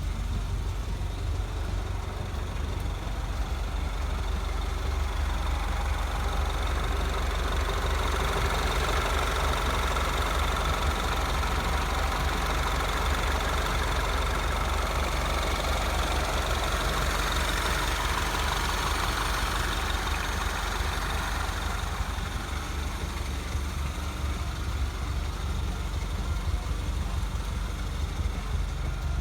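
Citroën DS3 Racing's 1.6-litre turbocharged four-cylinder engine, fitted with a carbon intake kit, idling steadily. A broad hiss swells through the middle and fades again.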